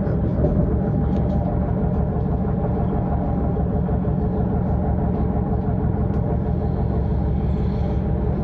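S-Bahn electric train running steadily between stations: an even rumble with a faint steady hum of several tones and a few small clicks.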